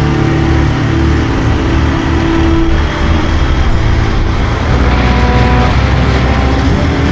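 Motorcycle engine running steadily while riding along, a continuous low hum.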